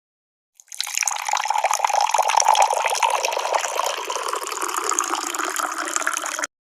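Tea being poured, a steady splashing stream of liquid filling a vessel. It starts about a second in and cuts off abruptly near the end.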